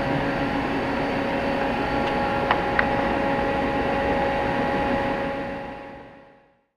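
Mighty Comet 1000PH vertical machining center running under power: a steady machine hum with several steady tones and two sharp clicks about two and a half seconds in. It fades out to silence in the last second and a half.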